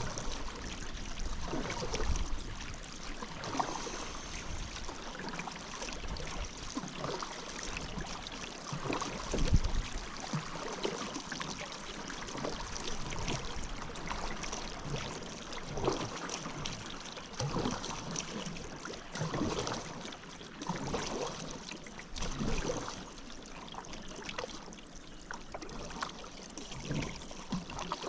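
Paddle strokes dipping and pulling through river water, an irregular splash every second or two, with water trickling and dripping off the paddle blade in between.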